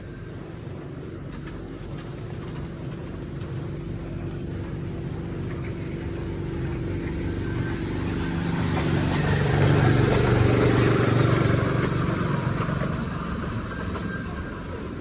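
A motor vehicle approaching and passing by. Its engine hum grows louder, is loudest about ten seconds in, then fades away.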